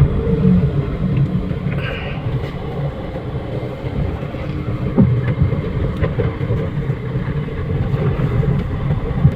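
Third-generation Toyota Vios being driven, heard from inside the cabin: a steady low engine and road rumble, with two short knocks, one about five seconds in and one near the end.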